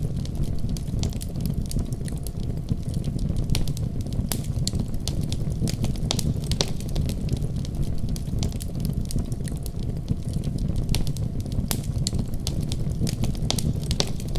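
Wood fire burning with a steady low rumble of flame and irregular sharp crackles and pops.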